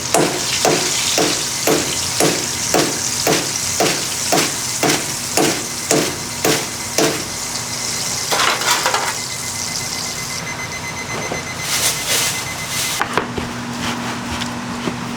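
Rhythmic knocking, about two and a half knocks a second, over a steady sizzle in a doughnut-shop kitchen. The knocking stops about eight seconds in, and the sizzle cuts off about ten seconds in, leaving a few scattered clicks.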